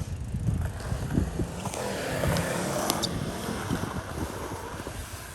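BMX bike riding on skatepark concrete: a low rolling rumble from the tyres with wind on the microphone and a few sharp clicks.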